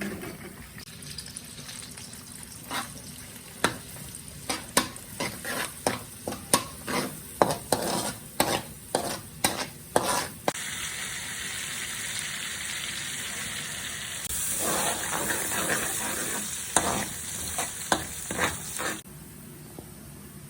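Kitchen cooking sounds: a run of sharp knocks and scrapes, about two a second, then food sizzling steadily as it fries in hot oil. The sizzle grows louder for a few seconds and then stops suddenly.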